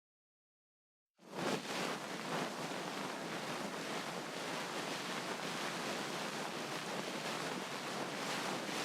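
Ear cleaning: a tool rubbing steadily inside an ear, a continuous scratchy rustle that begins after about a second of silence and stops abruptly at the end.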